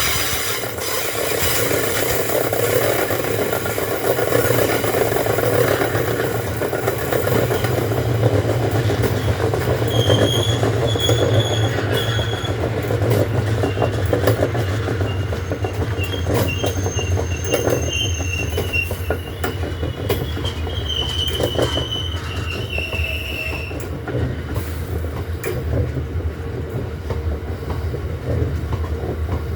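Heavy freight train of loaded stone wagons rolling steadily past, with a continuous rumble and wheels clicking over rail joints. High thin wheel squeals come and go from about a third of the way in.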